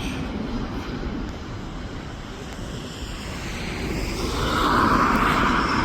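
Aircraft jet engine noise: a steady rumble that swells louder about four seconds in.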